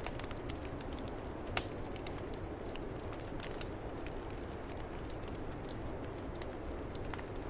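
Wood fire crackling with scattered small pops and one louder pop about a second and a half in, over a steady low rush of snowstorm wind.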